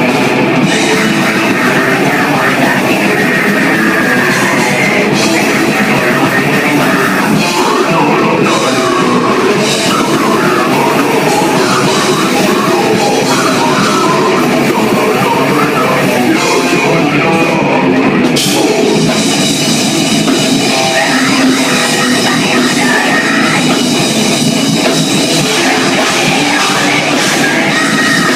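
Live band playing loud, heavy rock with distorted guitars and a drum kit.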